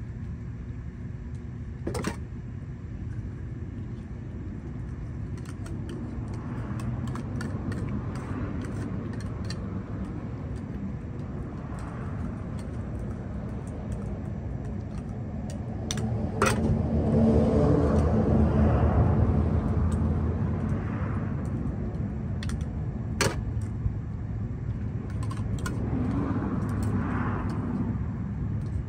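Low, steady rumble of road traffic that swells as a vehicle passes, loudest about two-thirds of the way through, with a few sharp clicks.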